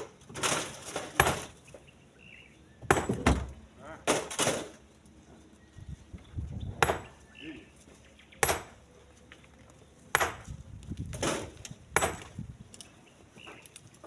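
Split stones being loaded by hand, landing one after another with sharp knocks and clinks about every one to two seconds.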